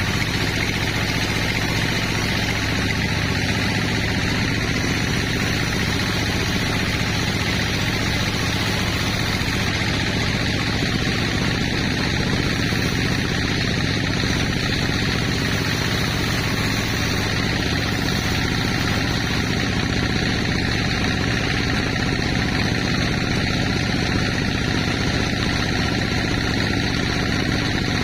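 Sawmill machinery running steadily: a constant engine-like drone that holds the same pitch and loudness throughout.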